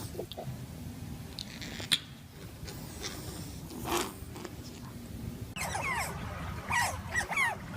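An animal's short, high calls repeated in quick succession, each sliding down in pitch, starting about two-thirds of the way in over a steady low rumble; before that only the rumble and a few light clicks.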